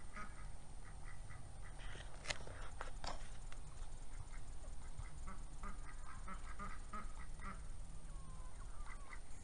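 Ducks quacking in quick runs of short calls, with two sharp clicks about two and three seconds in.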